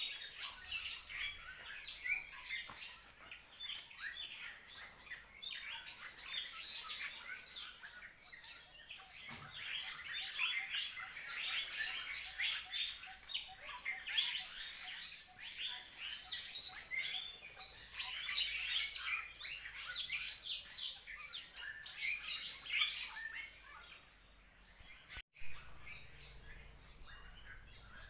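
Many birds chirping and calling in quick, overlapping short notes. The chirping thins out about four-fifths of the way through.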